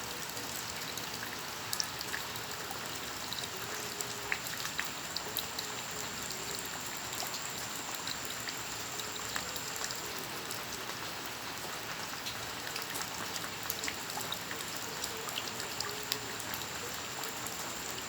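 Steady rain falling, with many individual drops ticking sharply close by. A faint, steady high tone stops about ten seconds in.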